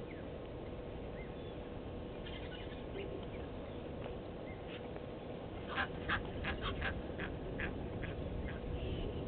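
A bird at a waterhole giving a quick run of about eight short, sharp calls over two or three seconds, the first two loudest, over steady outdoor background noise with a faint constant hum.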